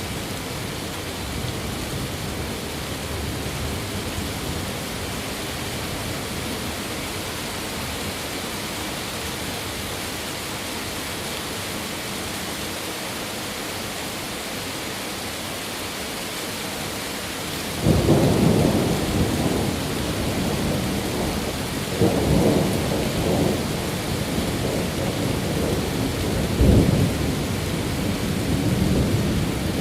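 Steady rain hiss, then thunder rolls in suddenly about two-thirds of the way through and keeps rumbling, swelling again twice with a sharper clap near the end.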